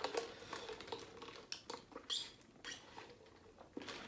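Close-miked chewing of food, with scattered short, crisp clicks and crunches, a few sharper ones around the middle.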